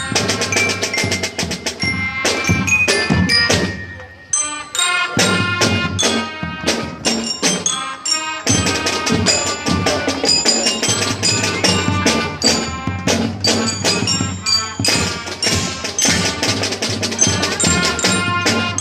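Marching band playing, with mallet percussion such as bells and marimba ringing out over drums. The music thins out briefly about four seconds in, then builds back up.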